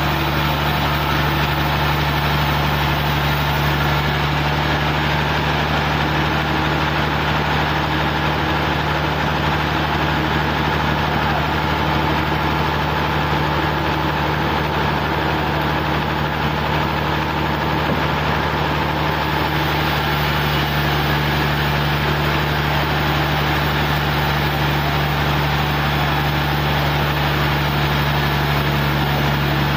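Engine running steadily at a constant speed, an unbroken drone that does not rise or fall.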